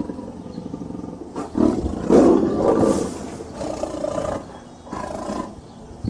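A large animal giving a series of rough, low roaring calls, the loudest about two seconds in.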